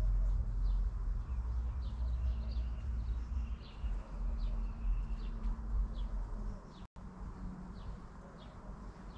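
Small birds chirping, short high chirps repeating every half second or so, with a few gliding notes. Underneath is a steady low rumble and hum that thins out after a brief dropout about seven seconds in.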